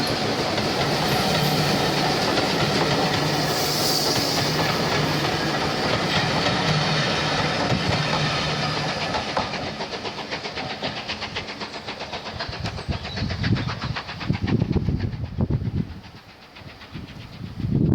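A train running past on the rail line, loud and steady at first, then fading away, with a fast clatter of wheels over the rails in the middle.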